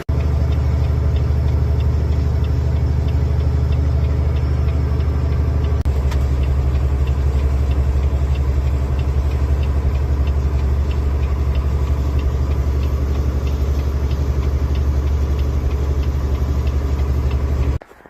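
Motor vehicle engine running steadily with a strong low hum and a faint regular ticking above it at about three ticks a second; it cuts off abruptly near the end.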